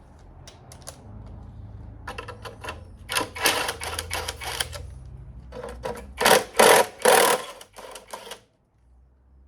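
Bolts being undone on a Mazda MX-5 Mk1 engine with a wrench: runs of rapid mechanical clicking and rattling over a low hum, with three louder bursts about two-thirds of the way through.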